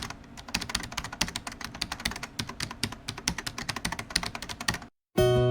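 Fast computer-keyboard typing: a dense run of irregular key clicks that cuts off suddenly near the end. Acoustic guitar music starts right after.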